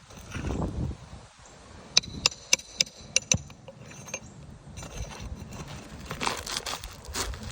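A metal tool clinking against roof shingles while nails are pulled out: about six sharp metallic taps in quick succession two to three and a half seconds in, then scraping and rustling near the end.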